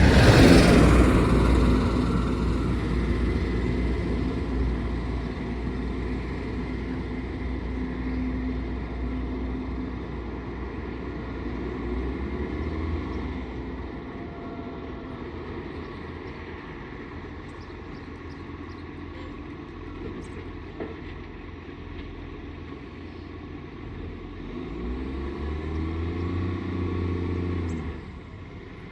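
Garbage truck's diesel engine with an exhaust leak, loud as it goes by close at the start, the pitch dropping, then fading as it drives off. Near the end the engine rises and falls again before it stops abruptly.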